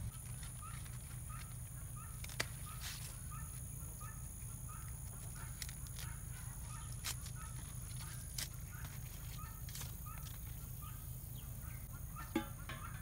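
A bird repeating a short high call about twice a second over a steady low outdoor rumble, with a few sharp clicks. A louder, fuller call comes near the end.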